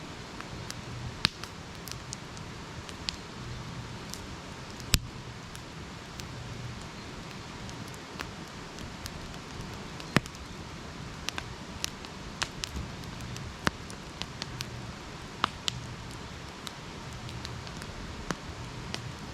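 Wood campfire crackling: scattered sharp pops and snaps over a steady hiss, the loudest pop about five seconds in.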